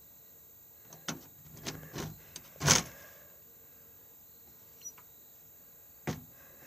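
Camper door being worked: a few latch and handle clicks, a louder short scrape as the door moves about three seconds in, and one more click near the end.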